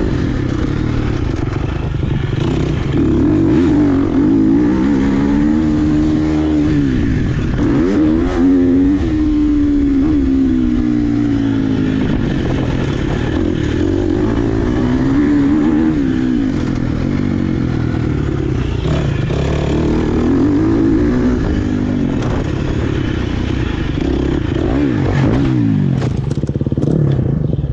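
Dirt bike engine revving up and down repeatedly while being ridden hard around a motocross track. The revs fall and climb again about seven to nine seconds in.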